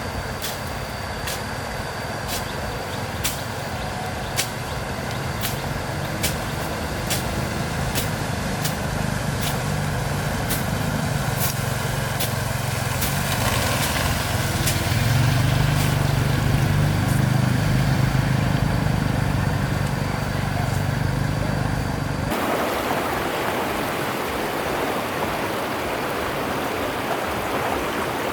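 An engine running steadily, with a sharp tick about twice a second through the first half. About three-quarters of the way through, it cuts off suddenly to the even rush of running water.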